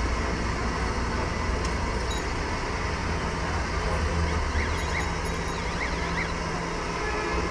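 Street traffic noise: a steady rumble of passing vehicles, with a faint wavering high tone in the middle.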